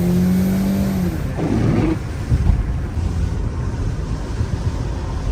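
Car engine note rising slowly for about a second, then dropping away, leaving a rough low rumble of wind on the microphone and road noise from the moving car.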